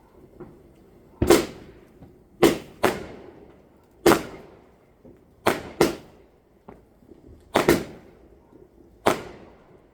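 Fireworks going off: about nine sharp bangs at irregular intervals, several in quick pairs, each with a fading echo.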